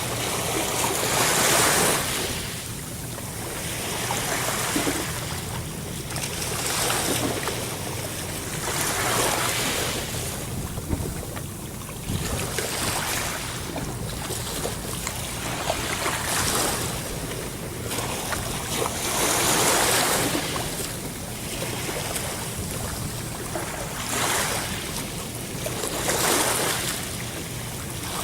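Sea waves breaking and washing in, the surf rising and falling in a swell every few seconds.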